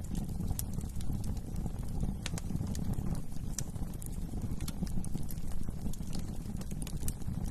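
Wood fire burning in a fireplace: sharp, irregular crackles and pops over a steady low rumble of flames.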